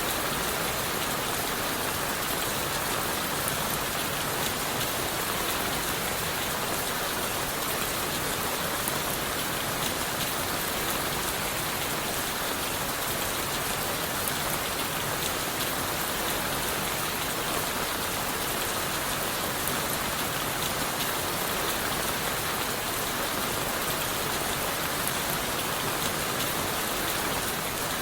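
Steady rain falling on leaves, wood and the forest floor: an even hiss with fine scattered drop patter, unchanging throughout.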